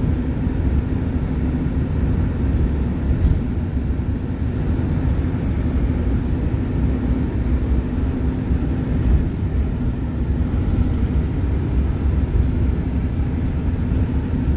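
Steady low rumble of a moving vehicle, with a faint steady hum under it.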